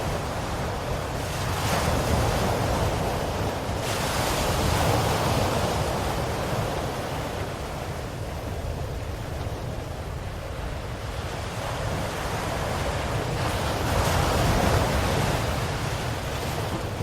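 Ocean surf: waves washing in and breaking over a steady low rumble. The wash swells and ebbs, with louder waves breaking about two and four seconds in and again near the end.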